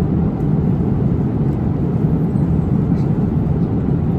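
Steady low rumble of cabin noise inside an Airbus A350-900 airliner, from its engines and the airflow, holding an even level throughout.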